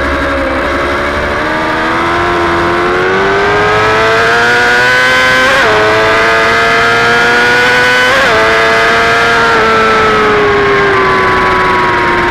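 Superbike engine heard from on board, revs climbing under acceleration with two quick upshifts, about five and a half and eight seconds in. After the second shift the revs fall away slowly as the bike rolls off the throttle.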